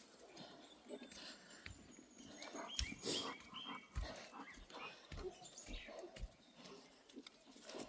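A bulldog breathing and sniffing as it walks, with soft, irregular low thumps.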